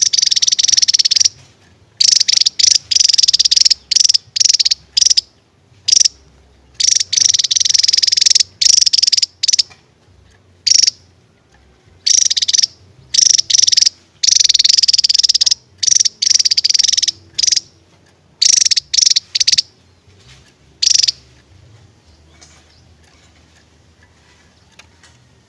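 Javan tesia singing loudly in long, rapid, high-pitched trilling bursts of up to about two seconds, broken by short gaps; the song stops about 21 seconds in.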